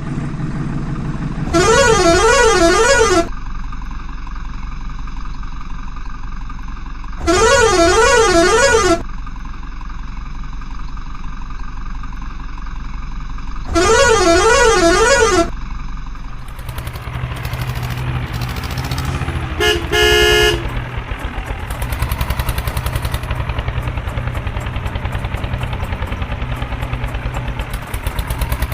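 Tractor engine running, with three long warbling horn blasts of about a second and a half each, spaced about six seconds apart. From about two-thirds of the way in the engine runs harder and louder, with one short horn toot a few seconds later.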